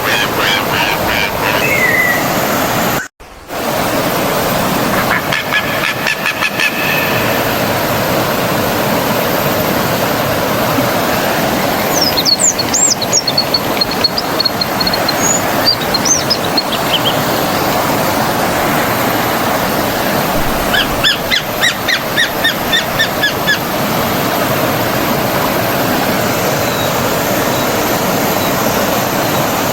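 A stream of flowing water rushing steadily, with birds calling over it in several bouts: repeated call notes, a higher sweeping song about twelve seconds in, and a fast run of notes a little past twenty seconds. The whole sound cuts out for a moment about three seconds in.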